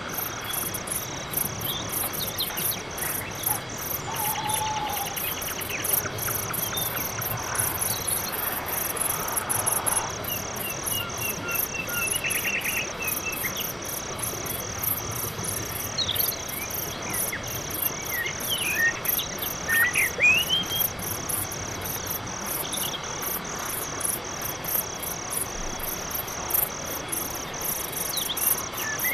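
Night forest ambience of crickets chirping in a steady, rapid pulsing chorus, with scattered short chirping calls over it, several close together about two-thirds of the way in.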